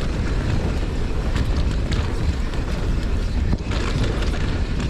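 Mountain bike riding downhill on a dirt trail: wind rushes steadily over the microphone, with scattered clicks and knocks from the bike and tyres over rough ground.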